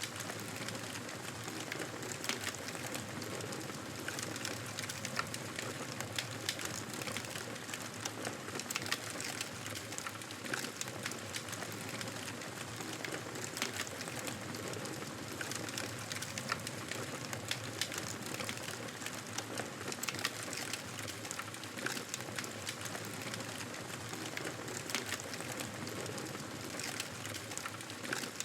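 Wood fire crackling in a fireplace: a steady soft hiss with frequent irregular small pops and snaps.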